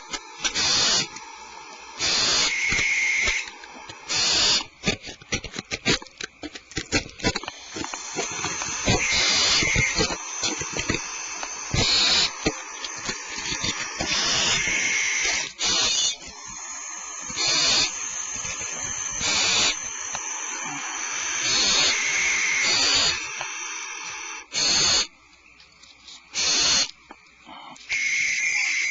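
Barn owl nestlings giving harsh, hissing begging calls, each about a second long and repeated every second or two, with a brief run of quick clicks a few seconds in.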